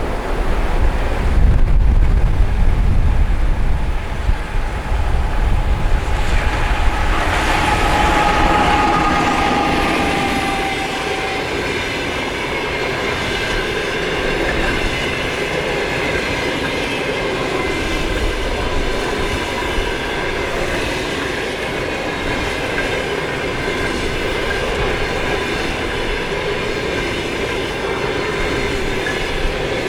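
A train rolling past on the track, its wheels running over the rails, with steady squealing tones from the wheels setting in about seven seconds in and holding. In the first few seconds gusty wind buffets the microphone with a low rumble.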